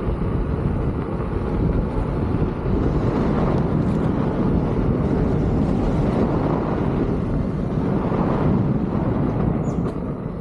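Wind buffeting the microphone of a camera carried by a rider on a moving electric unicycle: a steady low rush that eases slightly near the end.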